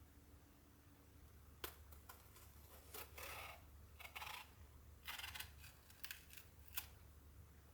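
Quiet close-up handling sounds: a few sharp clicks and several short, high scraping swishes in an irregular run over a faint steady hum.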